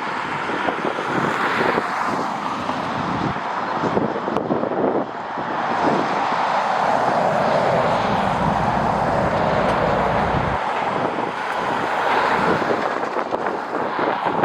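Jet airliner engines passing by, their sound swelling to a peak in the middle and easing off. Gusting wind buffets the microphone throughout.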